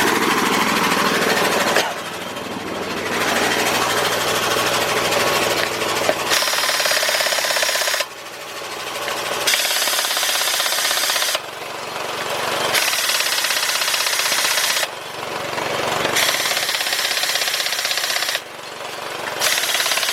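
Craftsman 16882 half-inch drive air impact wrench hammering on wheel lug nuts in about seven bursts of one to three seconds each. An air compressor runs steadily in the short gaps between bursts.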